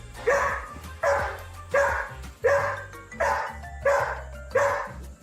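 A dog barking over and over in an even rhythm, about seven barks spaced roughly 0.7 s apart, over background music.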